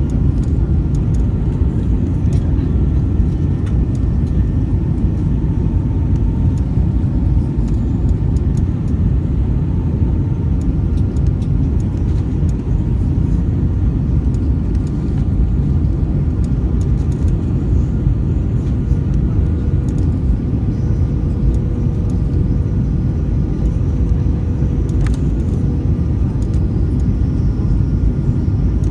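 Airbus A320 cabin noise during descent: the steady low noise of the jet engines and airflow over the fuselage, with faint steady hums above it.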